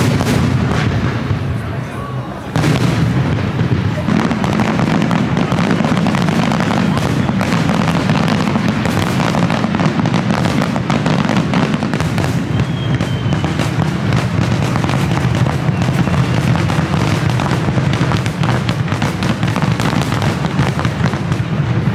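Fireworks display, many aerial shells bursting and crackling in quick succession without a break.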